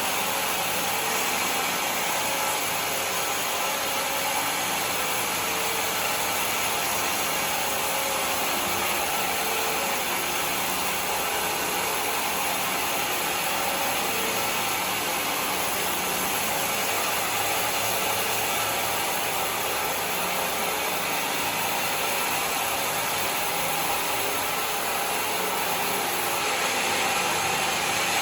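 A homemade sawmill running steadily, with a continuous mix of motor and saw noise. It holds even throughout, with no clear starts or stops.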